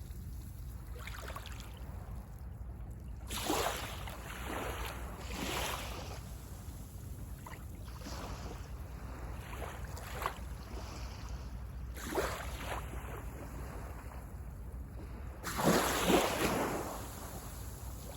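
Small waves breaking and washing up the beach one after another under a steady low rumble of surf. The loudest wave breaks near the end.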